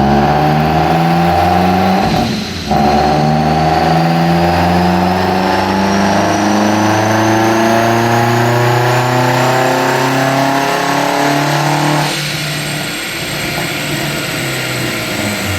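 Turbocharged four-cylinder Hyundai Elantra engine pulling on a chassis dyno, its revs climbing steadily under load with a faint rising turbo whistle. There is a brief break about two and a half seconds in, and the driver lifts off about twelve seconds in. The car is making only about one pound of boost because a damaged blow-off valve is leaking boost pressure.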